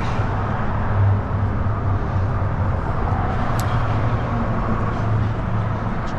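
Road traffic on the bridge overhead: a steady, loud rumble of cars, with a couple of brief sharp clicks, one at the start and one about three and a half seconds in.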